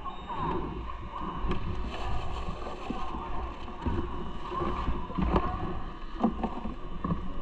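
Steady low wind and road rumble on the microphone while riding, with scattered knocks and rattles and a few short squeaks.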